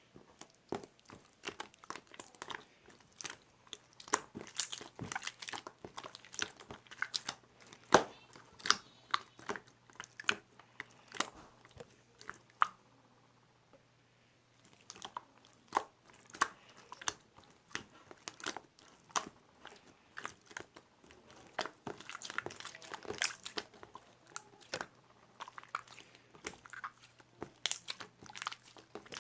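Close-up crunchy chewing: irregular crisp clicks and crackles, with a pause of about two seconds around the middle.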